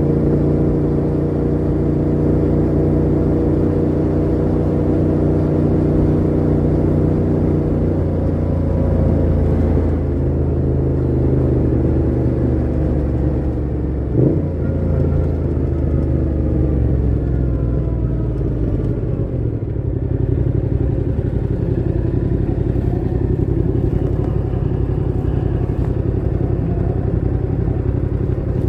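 Yamaha MT-07's parallel-twin engine running through a Mivv GP Pro full exhaust with the dB killer fitted, held at fairly steady revs while riding. About halfway through there is a brief sharp change in the engine note, and the revs then shift again.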